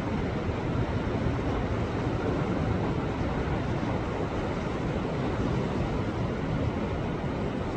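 Sea waves surging in against shore rocks: a steady, deep rushing wash of water with no single crash standing out.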